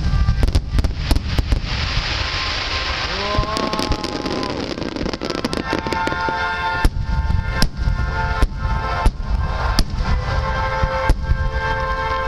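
Large aerial firework shells (12-inch shakudama) bursting, with repeated sharp bangs and crackling over a low rumble. Music plays along from about six seconds in.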